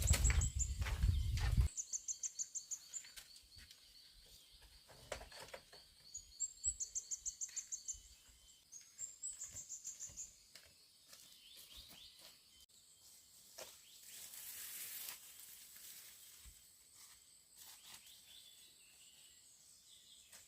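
Outdoor ambience with a low rumble for the first couple of seconds, then three pulsing, high-pitched chirping trills about a second long each, with a few faint knocks and rustles between them.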